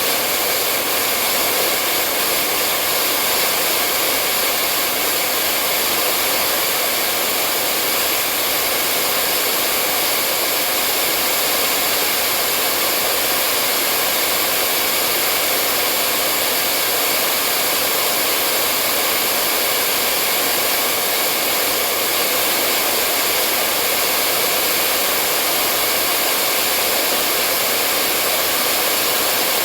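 Hair dryer blowing: a steady, unbroken rush of air with a faint constant whine from the motor.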